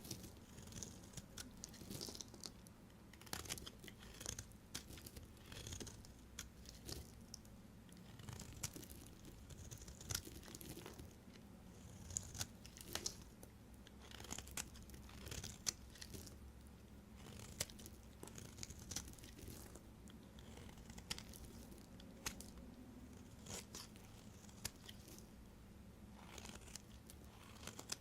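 Knife cutting through bars of soap: a run of short crisp crunches and scrapes as the blade goes through and the soap crumbles.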